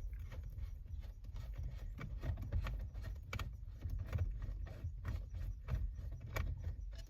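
A screwdriver turning out a Phillips-head screw from a car's steering column cover: irregular small clicks, taps and scrapes of the tool and the plastic cover over a low rumble of handling noise.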